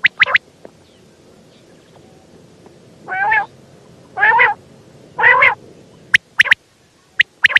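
Female common quail calling: quick clusters of short, sharp high notes near the start and again near the end, and in the middle three longer, harsher notes about a second apart.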